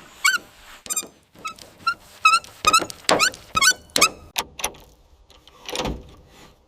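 A rapid series of short, high-pitched squeaks mixed with sharp knocks, about a dozen in four to five seconds, some squeaks rising in pitch. A brief softer swish comes near the end.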